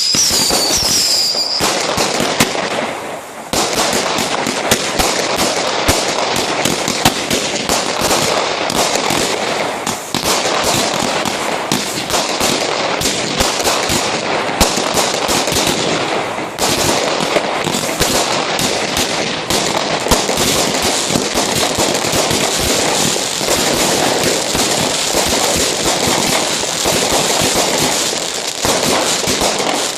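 Fireworks going off: a dense, continuous crackling and popping with sharper bangs scattered through, and a few whistles trailing off in the first second or so.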